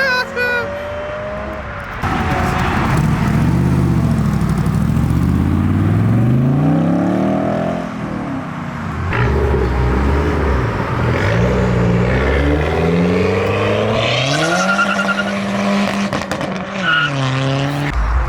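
A car engine accelerating hard, its pitch climbing for several seconds, dropping, then climbing again and holding before falling away near the end.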